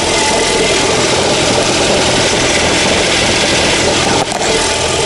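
Ford car engine idling, heard close up under the open bonnet, with a steady rapid knocking rattle. The owner suspects a failing dual-mass flywheel or the gearbox input shaft.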